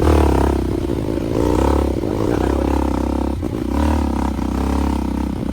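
Motorcycle engine running under load, its pitch and loudness swelling and easing about three times as the throttle is worked, with some rattling.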